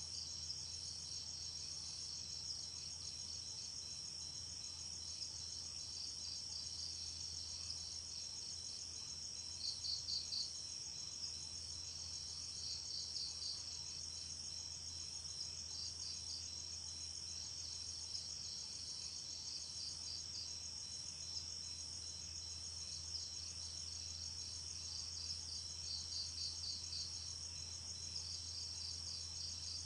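Night insect chorus: crickets keep up a steady high-pitched trill, with short bursts of rapid pulsed chirps a few times. A faint low hum runs underneath.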